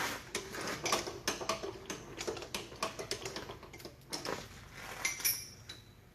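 A quick, irregular run of light clicks and taps, thinning out after about four seconds.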